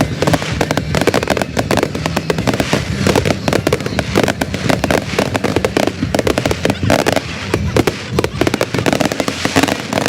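Fireworks display: a dense, rapid crackle of many small bangs going off one after another without a break.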